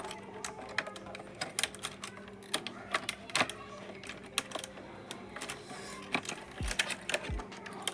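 Hands opening and handling the plastic packaging of a small diecast model truck: irregular sharp plastic clicks and taps, with two low thumps near the end.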